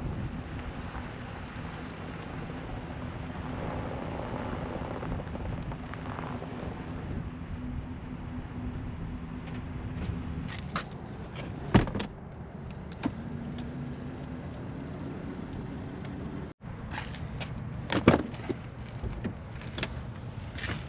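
Vehicle running with a steady low hum, while several sharp knocks and thumps sound; the two loudest come about twelve and eighteen seconds in.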